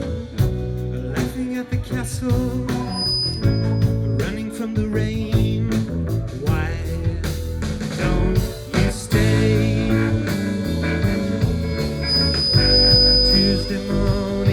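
Live rock band playing a jam-band song, with electric guitar over bass and drums.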